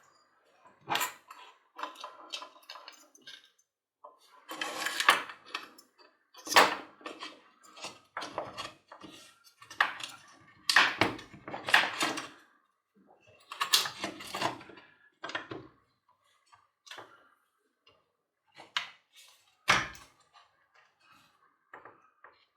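Irregular clicks, knocks and short rattles of hammer drill parts being handled and fitted together by hand during reassembly.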